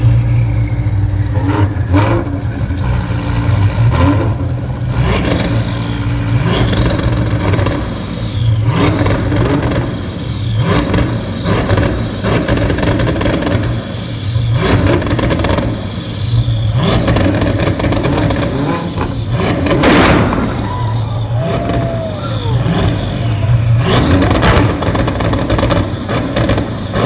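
Supercar engines, a Lamborghini Huracán Performante V10 and a Hennessy Venom GT twin-turbo V8, idling and revved hard at a standstill over and over, with a sharp rev about every two seconds and crackles between revs.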